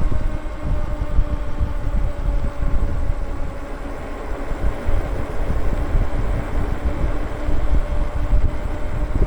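Wind buffeting the microphone of a moving electric bike, a constant low rumble, with a steady hum from the bike running underneath.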